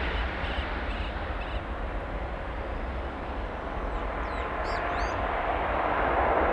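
Jet airliner engine noise, a steady rushing roar that grows louder near the end. A bird gives a few short high chirps a little after halfway.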